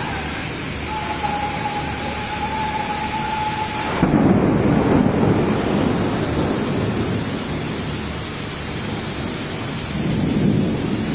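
Thunder during a heavy rainstorm over a steady hiss of rain: about four seconds in a sudden loud clap breaks in and rumbles on for a couple of seconds, and another rumble swells near the end. A thin steady high tone sounds for a few seconds before the clap.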